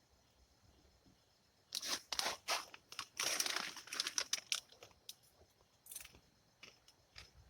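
Packaging being crinkled and handled: a dense flurry of sharp crackles starting about two seconds in and lasting about three seconds, then a few scattered crackles.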